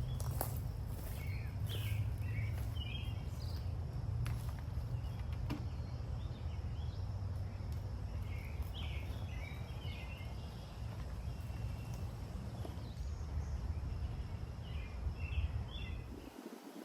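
Small birds chirping in short scattered calls over a steady low rumble. The rumble cuts off abruptly just before the end.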